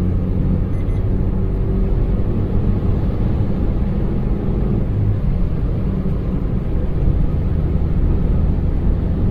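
Maruti Suzuki Baleno hatchback driving along: a steady low rumble of engine and road noise.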